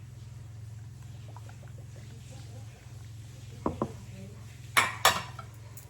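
Kitchen dishes and utensils being handled: two light knocks about three and a half seconds in, then two sharp clinks near the end, over a steady low hum.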